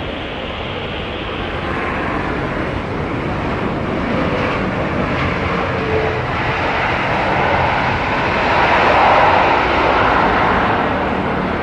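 Jet airliner engines passing close by, a steady noise that grows louder to a peak about nine seconds in and then begins to fade.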